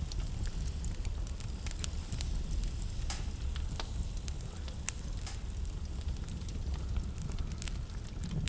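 Wood fire burning in a fireplace: a steady low rumble of the flames with many irregular sharp crackles and pops, the loudest about three and five seconds in.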